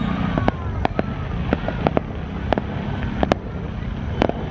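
Aerial fireworks going off: a dozen or more sharp bangs and cracks at irregular intervals over a steady low rumble.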